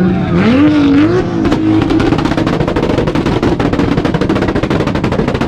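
Turbocharged Toyota Supra engine revving up onto its two-step launch-control limiter, then held there with a rapid, continuous string of exhaust bangs and pops as the limiter cuts the ignition.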